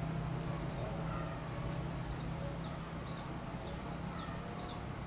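Small birds chirping in the background: short, high chirps that drop in pitch, about one or two a second, over a steady low hum.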